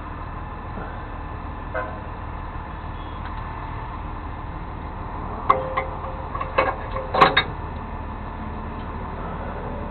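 A vehicle engine idling steadily, with a quick string of sharp knocks between about five and seven and a half seconds in.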